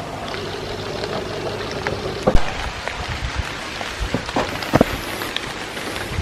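Steady rain falling, with scattered sharp knocks and clicks over it, the loudest about two seconds in and again near five seconds.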